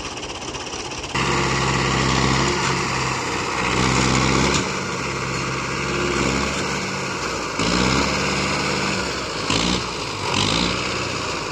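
Tractor engine running under load. It gets suddenly louder about a second in, and its pitch and loudness rise and fall several times as it is revved.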